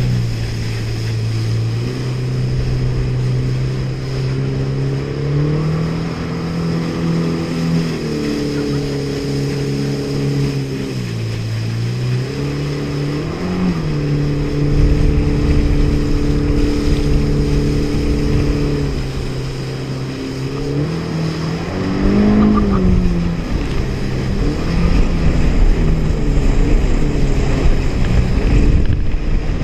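Honda jet ski's four-stroke engine running under way, its note holding steady for long stretches. The pitch dips and climbs back about eleven seconds in, and again around twenty to twenty-two seconds in as the throttle is eased and opened, over a constant rush of water and wind.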